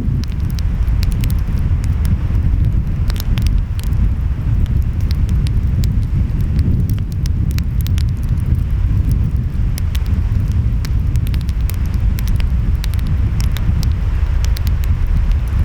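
Wood fire crackling, with many sharp pops, over a steady low rumble of wind and breaking waves.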